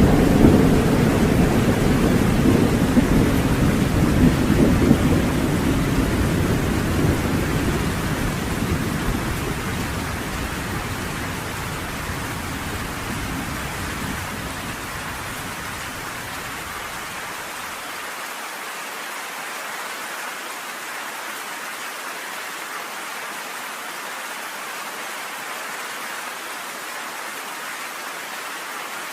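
Thunderstorm: a long roll of thunder rumbles over heavy, steady rain and slowly fades away over about fifteen seconds, leaving only the even hiss of the rain.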